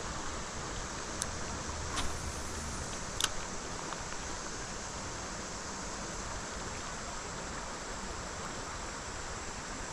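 Steady rush of creek water flowing over a riffle, with a few short sharp clicks in the first few seconds.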